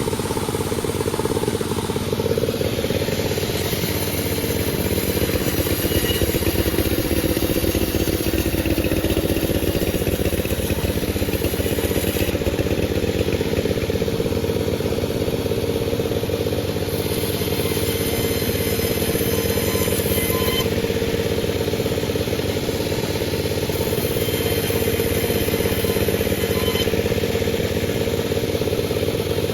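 Panda36 chainsaw held at high, steady speed while sawing a durian log. Its pitch steps up a little about two seconds in, then stays level.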